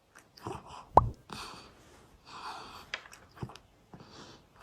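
A cat eating: soft wet smacking and licking sounds, with one sharp rising 'plop' pop about a second in.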